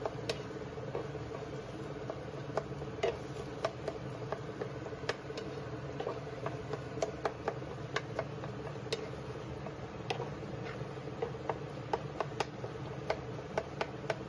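Wooden spatula stirring a thick pea, potato and tomato mixture in a non-stick frying pan, knocking and scraping against the pan in irregular clicks about once or twice a second, over a steady hum.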